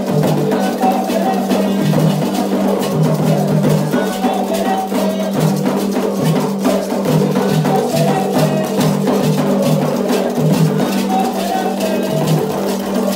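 Candomblé ritual percussion: atabaque hand drums and a struck bell playing a fast, steady, interlocking rhythm.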